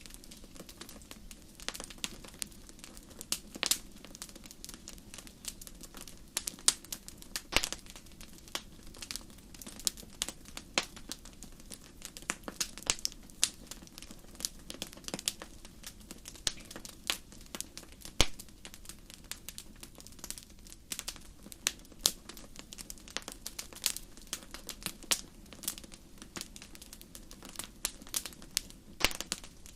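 Wood campfire crackling: a dense, irregular run of sharp pops and snaps over a steady low rush of the burning fire.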